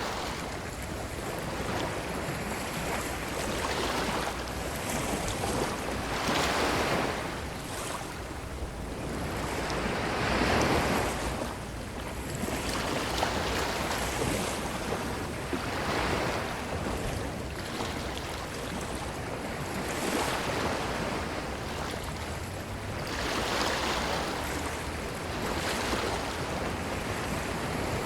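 Ocean waves washing onto a beach shore, the surf swelling and falling back every few seconds in an uneven rhythm.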